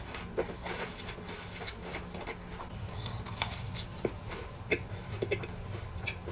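Close-miked chewing of a cookie: soft wet mouth clicks and small crunches, scattered irregularly over a faint low hum.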